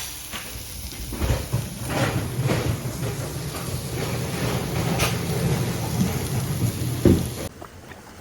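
Meat sizzling and crackling on a hot grill, with a steady low hum under it. There is a louder thump near the end, then the sound cuts off.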